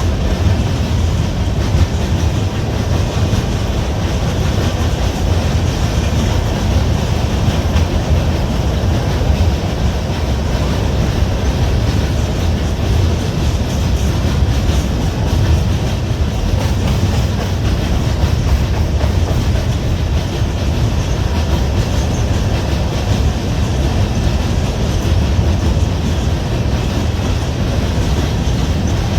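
Freight train's cars rolling past on the rails, a loud steady noise with no break.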